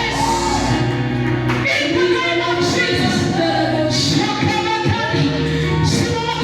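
Gospel song: several voices singing together over instrumental accompaniment.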